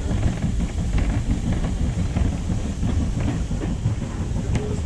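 A steam railway passenger carriage running along the track: a steady low rumble with irregular clicks and clatter from the wheels on the rails.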